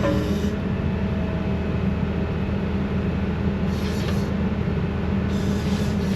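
Heavy diesel engine running steadily at a constant speed, with a low even drone.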